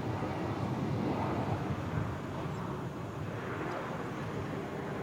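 Jet aircraft engines making a steady rumble.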